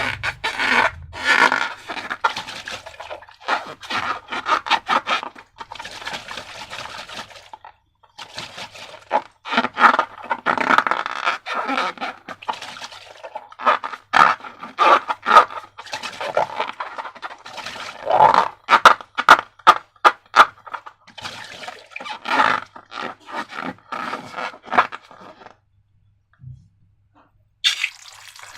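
Slime being mixed and scraped, a long run of irregular scraping and crackling strokes broken by two short pauses. Near the end a tap starts running.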